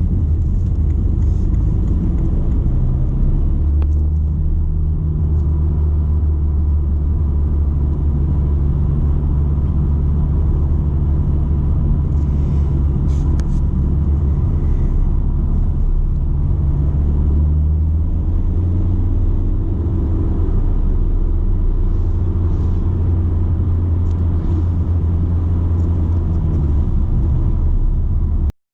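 BMW 120d's four-cylinder turbodiesel and road noise on the move: a steady low drone whose pitch shifts slightly a couple of times. It cuts off abruptly near the end.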